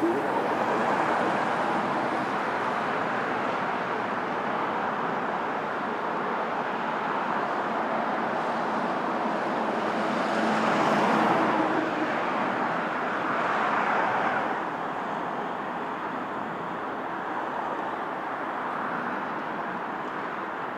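Steady rushing noise of jet aircraft engines, swelling louder twice in the middle as an aircraft moves past.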